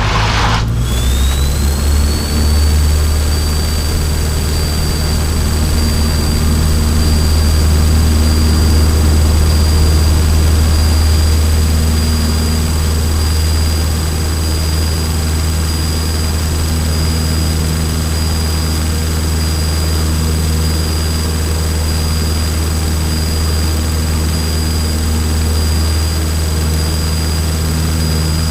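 Cessna 152's Lycoming four-cylinder piston engine at full power for the takeoff of a touch and go, a steady heavy drone heard inside the cockpit. A high whine rises about a second in as the power comes up, then holds level.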